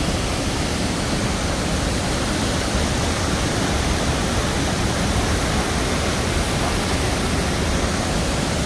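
Chitrakote waterfall's water pouring over the falls: a steady, even rush of water.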